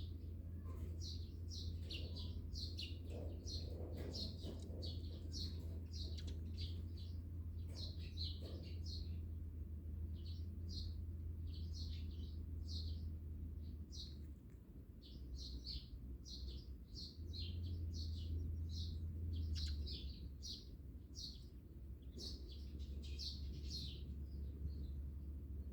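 Small songbirds chirping over and over, with short quick notes throughout, over a steady low rumble.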